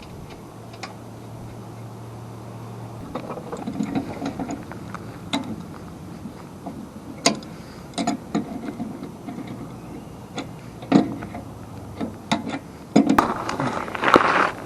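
Scattered clicks, clinks and knocks of tools and metal parts being handled while a snowblower is worked on by hand, with a denser scraping rattle near the end. A faint low hum runs under the first few seconds.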